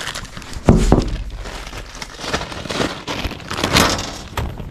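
Spare chicken-waterer parts being handled and sorted, with irregular rustling and crinkling and a sharp thump about two-thirds of a second in.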